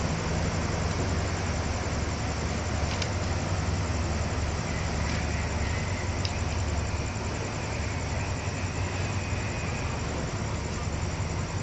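Steady low rumble and hum of a train, with two faint clicks about three and six seconds in.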